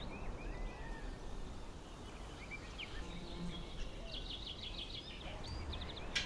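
Birds chirping, with quick trills of repeated high notes a few seconds in, over faint steady outdoor background noise.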